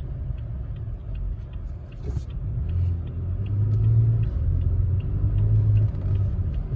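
2021 Toyota Tacoma pickup's engine and road rumble heard from inside the cab while driving. The engine note strengthens and the truck pulls harder from about three seconds in, easing off near the end.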